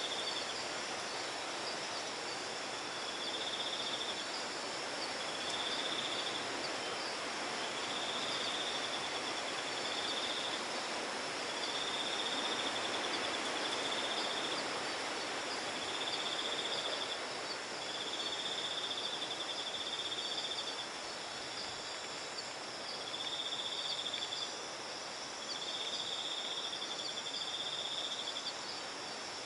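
Insects calling: a high trill repeats in bursts of a second or two with short gaps, over a steady, even higher insect chorus and a constant background hiss.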